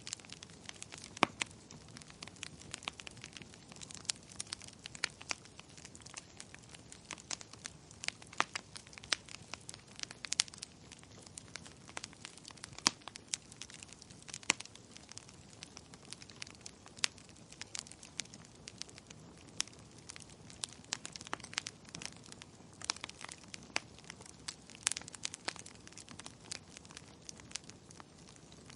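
Wood fire crackling in a fireplace: irregular sharp pops and snaps of burning wood, several a second, over a soft steady hiss.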